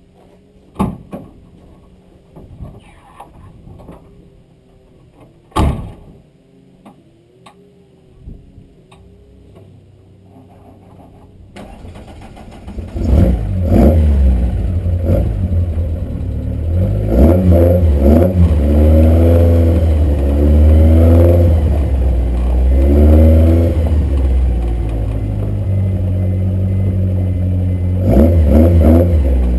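A few sharp knocks and clunks in near quiet, then the VW Corrado's 2.0-litre 16-valve four-cylinder engine is started about twelve seconds in and runs loudly, with several throttle blips that rise and fall in pitch.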